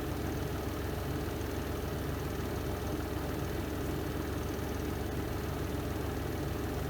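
Spin drum of a Renova semi-automatic twin-tub washing machine running through its spin cycle: a steady, even motor hum with no change in speed.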